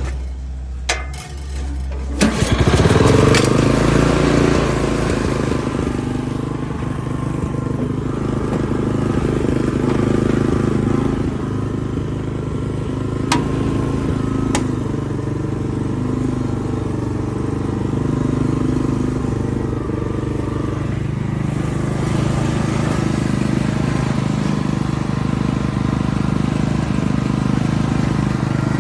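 Kubota GH170 single-cylinder gasoline engine on a Chikusui Canycom ride-on carrier starting about two seconds in, surging briefly, then settling into steady running. Two sharp clicks come midway.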